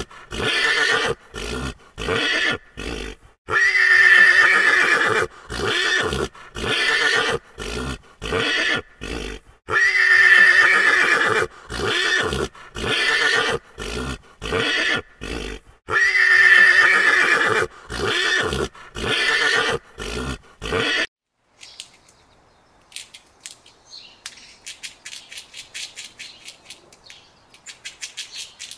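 A horse whinnying over and over, the same call sequence repeating about every six seconds. It cuts off abruptly about three quarters of the way through.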